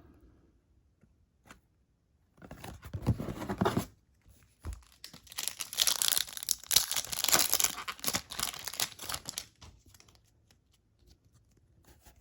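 A trading card pack wrapper being torn open and crinkled, in two bursts: a short one about two and a half seconds in, then a longer, louder one from about five to nine and a half seconds.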